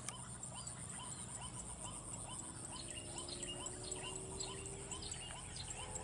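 Birds calling: short rising notes repeated two or three times a second, with higher chirps joining about halfway, over a steady high-pitched whine. A faint low drone comes in about halfway, slowly rising in pitch.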